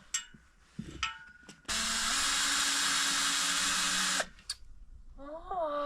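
Power drill running at steady speed for about two and a half seconds, driving a screw for metal into a fence pole, with a few short clicks before and after. The screw keeps slipping instead of biting, and she thinks it needs a pilot hole.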